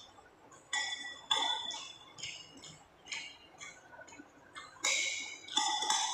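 Cutlery clinking against a plate while eating, a string of sharp, irregular clinks, about ten, each with a short high ring, loudest near the end.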